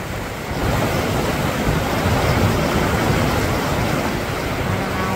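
Fast, deep mountain creek rushing steadily in strong current, a loud, even water noise.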